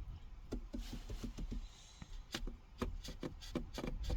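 A series of irregular light knocks and clicks, about a dozen spread over the few seconds, over a steady low rumble.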